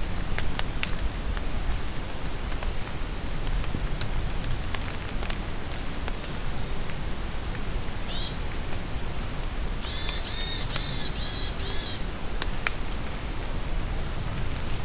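Steady rain falling in a forest, with drops ticking. A songbird calls over it: scattered short high chirps, then about ten seconds in a loud, quick run of about eight repeated high notes lasting some two seconds.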